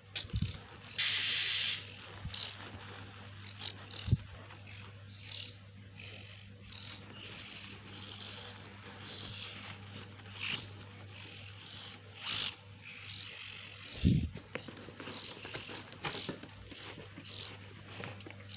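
Oriental magpie-robin (kacer) chicks chirping, many short high calls repeated over and over. A few low thuds sound near the start, about four seconds in and about fourteen seconds in.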